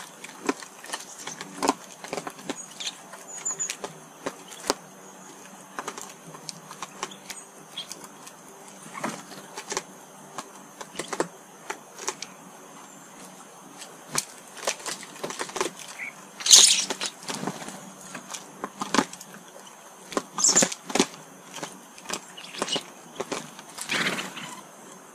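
Small garden birds: irregular short taps and flutters with a few brief high chirps, the loudest about two-thirds of the way through.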